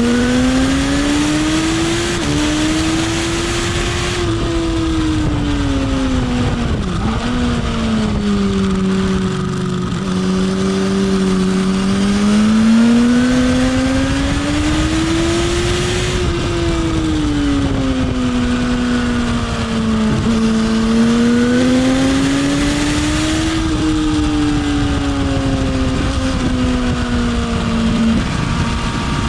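Motorcycle engine heard from on board at track speed, its pitch repeatedly climbing under acceleration and falling into the corners, with a few sudden drops at gear changes. Wind rushes over the microphone, strongest at the highest speeds.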